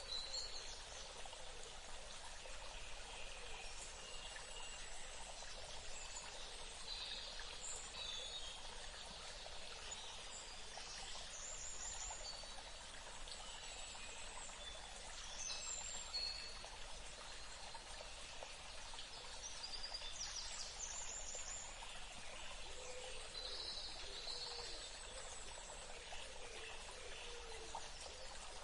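Steady trickle of running water, with scattered short bird chirps throughout.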